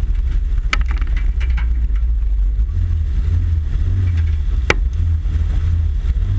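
Car engine running low and steady as the car rolls slowly over loose gravel, with a deep rumble and two sharp clicks, one near the start and one about three-quarters through.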